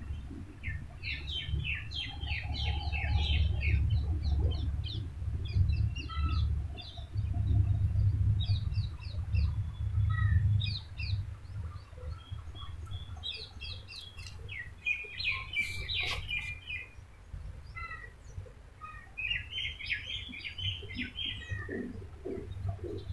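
Small birds chirping in quick clusters of short, high notes, on and off throughout, over a low rumble that is strongest in the first half.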